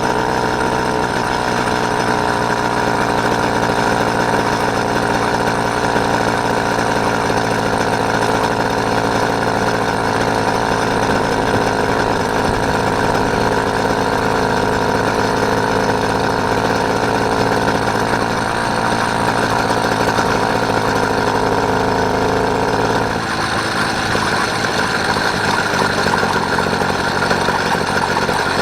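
Small engine of a motorised bicycle running steadily while riding; its note shifts about two-thirds of the way through.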